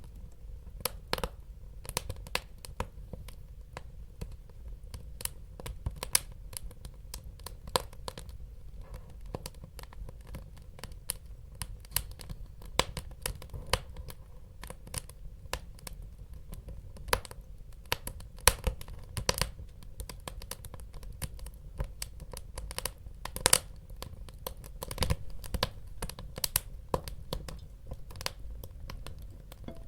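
Wood fire crackling in a fireplace: irregular sharp pops and snaps, at times several a second, over a low steady rumble.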